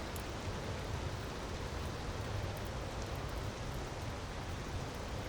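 Steady rushing of a waterfall, with a few faint crackles from a wood fire.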